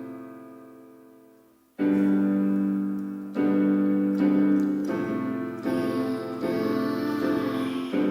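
Piano playing slow sustained chords: a chord dies away over the first two seconds, then new chords are struck every second or two and left to ring.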